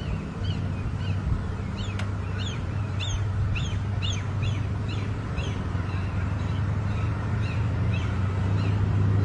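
A bird calling over and over in short, sharp, falling chirps, about two a second, loudest around the middle and thinning out towards the end, over a steady low hum.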